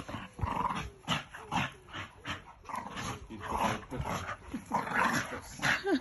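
Two dogs, one a Staffordshire bull terrier, growling in rough play, in a rapid, uneven series of short growls and huffs. There is a brief falling whine near the end.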